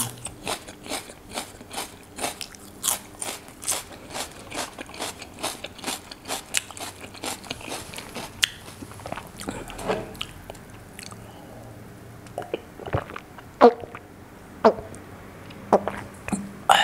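Close-up crunchy chewing of raw onion rings, about three crunches a second, through the first half. After that the crunching thins out into a few sparse, sharp clicks and knocks; the loudest comes about two-thirds of the way in.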